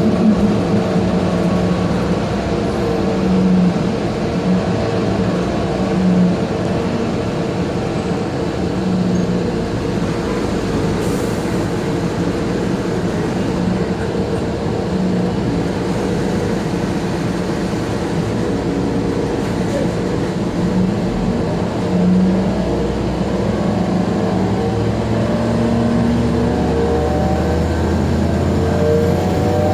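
Cabin sound of an Orion VII CNG transit bus under way, the engine running steadily with the HVAC on. The engine pitch rises near the end as the bus picks up speed.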